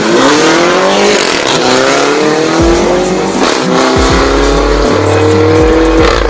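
MINI Cooper S F56's turbocharged four-cylinder engine running through a John Cooper Works exhaust, accelerating hard through the gears: the engine note climbs, drops back at an upshift about a second and a half in and again around three and a half seconds, then climbs once more.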